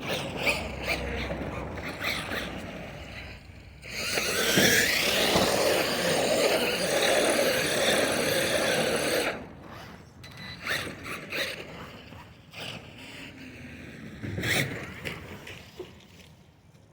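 Radio-controlled monster truck driving: its motor whine rises as it speeds up, with a loud stretch of motor and tyre noise from about 4 to 9 seconds in. Clicks and rattles come before and after.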